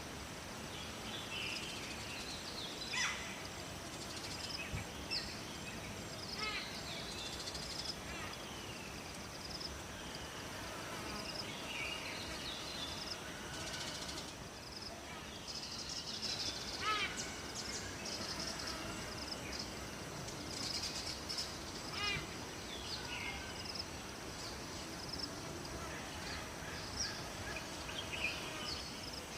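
Several wild birds chirping and calling, with quick falling trills now and then, over a steady even wash that fits flowing water.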